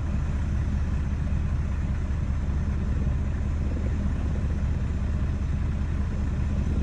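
Avalanche of snow and ice rumbling steadily down a mountainside, a deep, even rumble with a noisy hiss over it.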